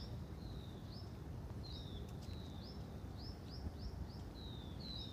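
A small bird chirping over and over: short, sharp, high calls about two a second, unevenly spaced, over a low steady background rumble.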